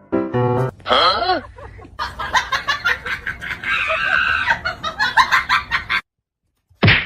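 Animal calls: a quick run of short, repeated calls lasting several seconds. They cut off suddenly about six seconds in, and one short loud sound follows near the end.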